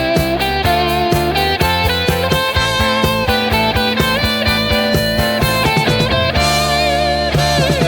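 Arena rock instrumental break: electric guitar playing a lead line with bent notes over a driving drum beat.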